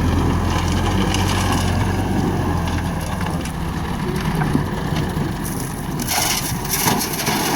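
Massey Ferguson tractor's diesel engine running under load while its front loader bucket crunches and scrapes through a pile of stones and soil. The crunching grows louder about six seconds in.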